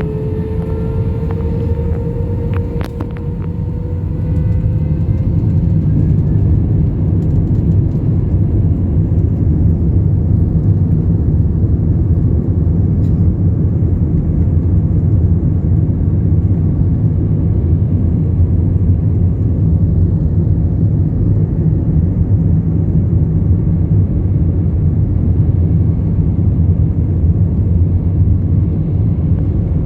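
Airbus A321 jet engines heard from the cabin: a whine rising slowly in pitch over the first few seconds as they spool up to takeoff power, then a loud, steady rumble of the takeoff roll.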